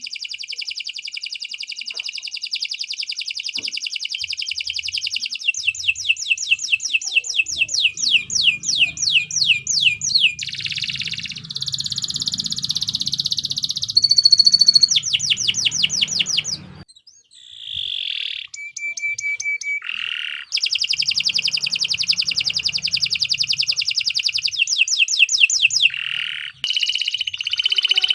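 Domestic canary singing a long, continuous song: fast trills of rapidly repeated notes alternating with buzzy rolls and short whistled tones, briefly breaking off about two-thirds of the way through.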